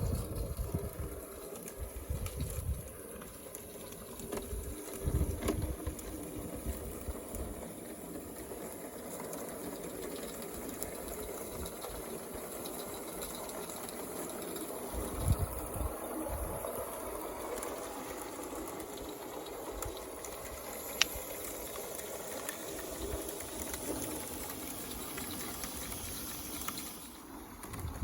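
Live-steam model locomotive running on a garden track, with a steady hiss of steam. Low gusts of wind buffet the microphone now and then, and there is a single sharp click about three quarters of the way through.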